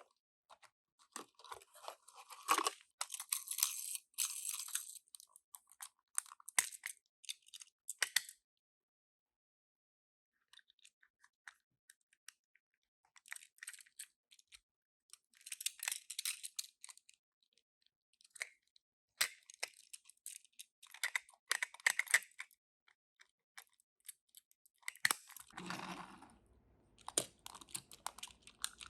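Toy car packaging being handled and opened: crackling and tearing of cardboard and plastic in irregular bursts with sharp clicks, broken by short pauses.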